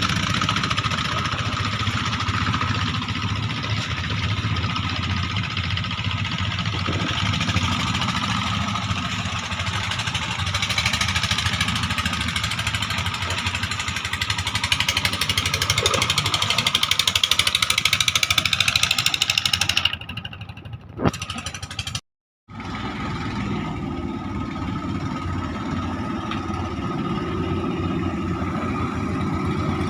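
Engine of a klotok river boat running steadily, dipping briefly about 20 seconds in and cutting out for a moment just after before running on.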